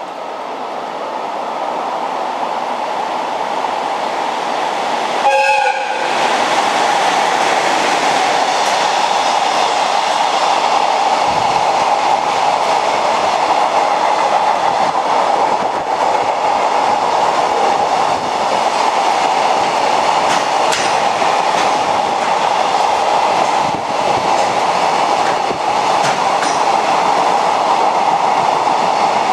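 ED76 electric locomotive hauling a JR Freight container train past at speed. The locomotive's horn sounds once briefly, about five seconds in, as it draws near. Then comes the steady loud rumble and rail clatter of the container wagons' wheels running by.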